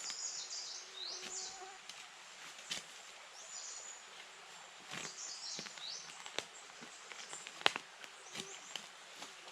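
Small birds singing in short, repeated high phrases of quick chirps and sweeps, with a few scattered sharp clicks, the loudest near the end.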